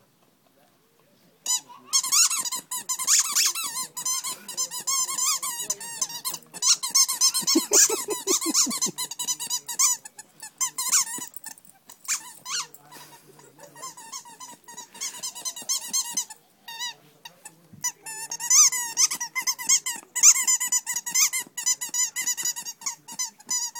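Rubber squeaky toy squeaked rapidly and over and over as a dachshund chews it, in quick wavering bursts, with a short low growl about eight seconds in. The squeaking starts about a second and a half in and breaks off briefly past the middle.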